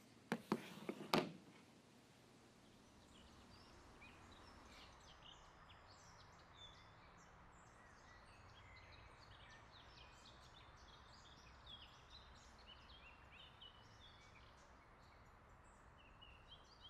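Faint woodland ambience: many small birds chirping in short, high calls over a low steady hiss. A few sharp clicks come in the first second or so.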